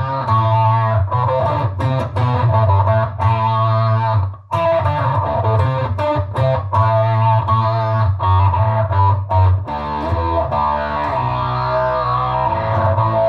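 Fender Stratocaster electric guitar played through a Fender Mustang GTX100 modeling amp on a synth-like effects preset, sustained notes in the low register. The playing stops briefly about four seconds in.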